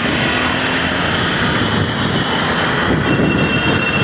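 Motorcycle riding through city traffic: steady engine and road noise from a Bajaj Pulsar 200NS, with other vehicles around.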